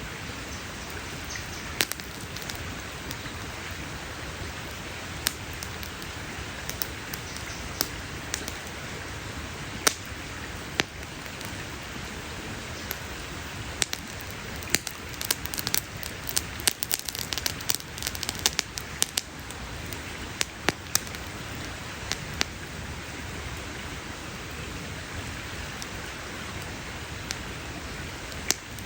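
Wood campfire crackling: a steady hiss with sharp pops scattered through it, coming thick and fast for several seconds around the middle.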